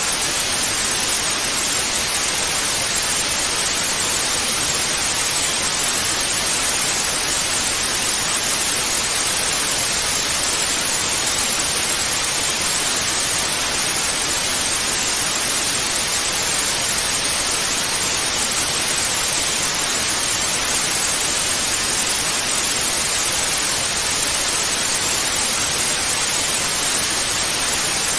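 Television static: a steady, even hiss of white noise, brightest in the upper range, with no changes.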